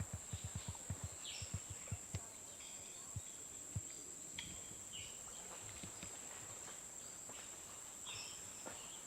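Steady high-pitched insect drone, like crickets or cicadas, with a few short chirps scattered through it. A quick run of soft low thumps comes in the first two seconds.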